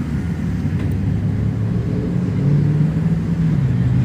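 Vehicle engines running with a steady low rumble, one engine's note standing out more clearly in the second half.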